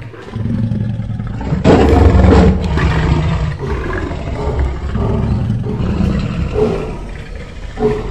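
Male lion roaring: a deep, loud call that peaks about two seconds in, then carries on in uneven lower bouts.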